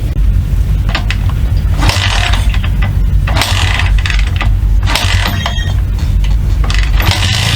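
Honda Ape 50's 49 cc single-cylinder four-stroke engine running with a steady low throb. Several short bursts of mechanical rattle come over the top.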